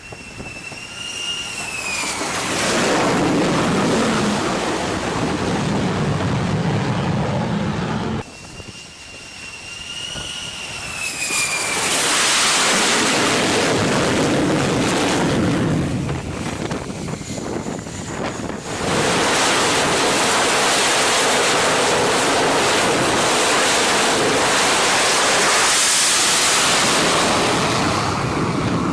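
F-35B fighter's jet engine at high power: a high whine that dips in pitch as a loud roar builds. The roar breaks off abruptly about eight seconds in, the whine-and-roar comes again, and after a second abrupt change a little before twenty seconds a steady roar holds to the end.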